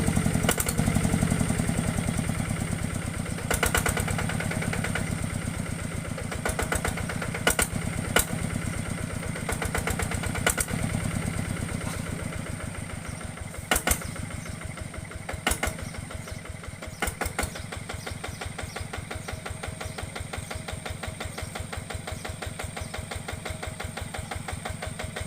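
Small diesel engine running with an even chugging beat that grows gradually quieter, with a few sharp clacks along the way.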